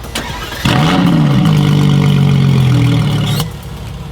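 A car engine starting with a loud flare, then running steadily before cutting off suddenly about three and a half seconds in.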